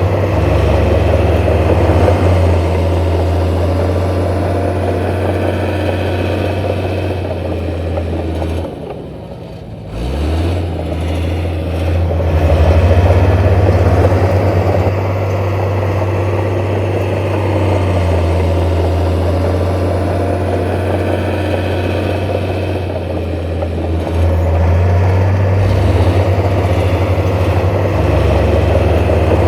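Heavy diesel engine of earthmoving machinery running steadily. About nine seconds in it drops away briefly, then rises in pitch as it picks up again.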